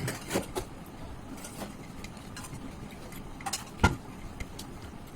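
Close-up eating sounds from a meal of chicken liver curry with rice: short mouth clicks and smacks while chewing, with a cluster at the start and one louder sharp click just under four seconds in.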